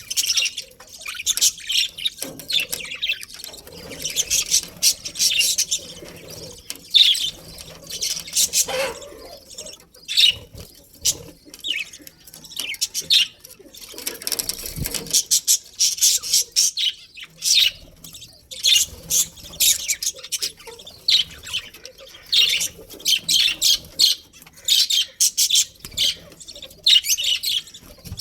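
A flock of budgerigars chattering and chirping continuously in rapid, overlapping high-pitched calls.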